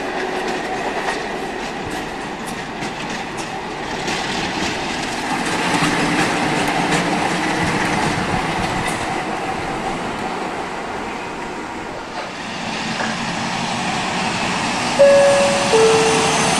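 A train moving through the station, with wheels clicking over rail joints and a steady rumble and hiss. Near the end the locomotive's two-tone horn sounds once: a short high note, then a lower one.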